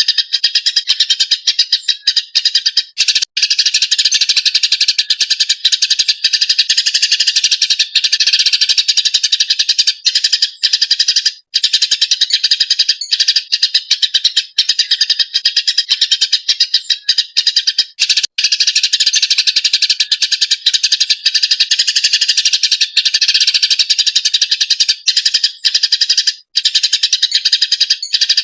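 Eurasian tree sparrows chattering agitatedly, a dense, rapid stream of short chirps that runs on almost without a break, with only a few brief gaps.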